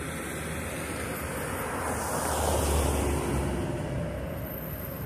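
Outdoor traffic noise: a vehicle goes by, its rumble swelling about two seconds in and fading again.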